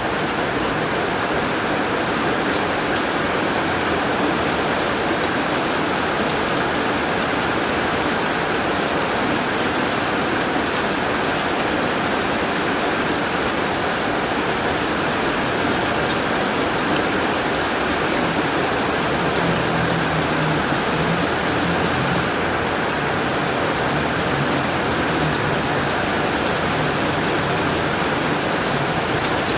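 Heavy rain falling steadily on a tin roof, a dense even hiss with scattered sharp drop ticks.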